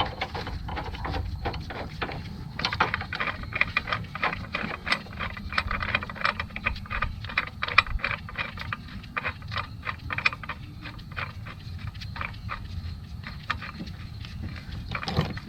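Quick, uneven metallic clicks and taps from bolts being fitted by hand into an engine's motor mount, over a low steady rumble. The clicking is busiest through the middle and thins out near the end.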